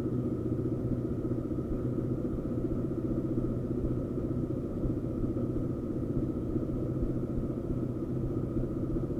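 KTM Duke motorcycle's single-cylinder engine idling steadily just after a cold start, having stood unstarted for about a month.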